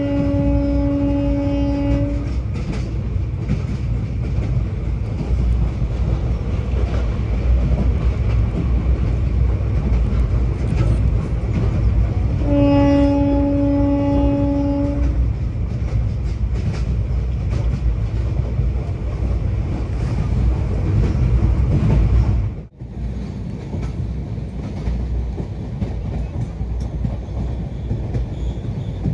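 Train running with a steady low rumble. A locomotive horn sounds at the start, ending about two seconds in, and blows again for about two and a half seconds around the middle. About three quarters of the way through, the sound drops out briefly and the rumble comes back quieter.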